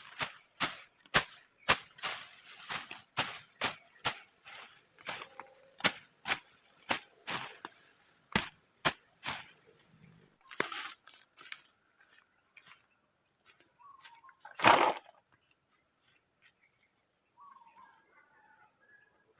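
A tool striking wood in a quick, regular series of sharp knocks, about two a second, for around nine seconds, then a few scattered knocks and one heavier thump about fifteen seconds in.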